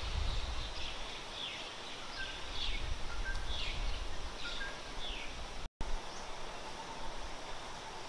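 A bird repeating a short downslurred call about twice a second, with a few faint short whistles from another bird, over a steady hiss of forest background. The calls stop about two-thirds of the way through, and the sound cuts out for an instant soon after.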